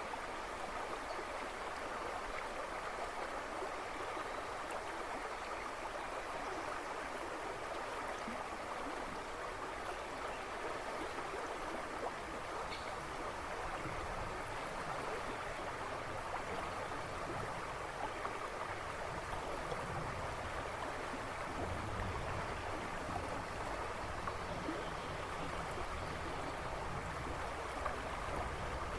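A river rushing and splashing, a steady water noise. A lower rumble grows in about halfway through and gets stronger towards the end.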